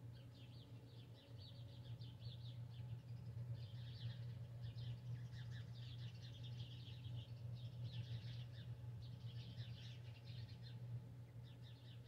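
Faint chorus of birds chirping and twittering, rapid high chirps coming in clusters without pause, over a steady low hum.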